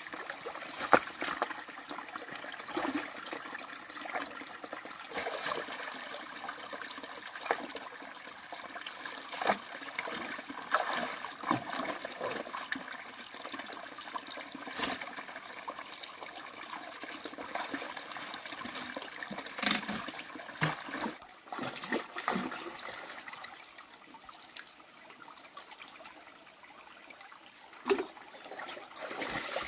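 Water trickling and splashing, broken by irregular sharp clicks and knocks.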